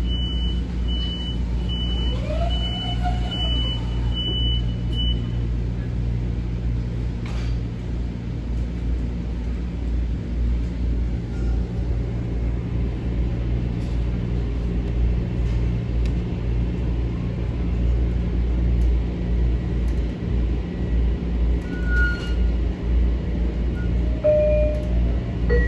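Metro-North M7A electric multiple-unit train running, heard from inside the passenger car as a steady low rumble and hum. A high electronic beep repeats about one and a half times a second until about five seconds in.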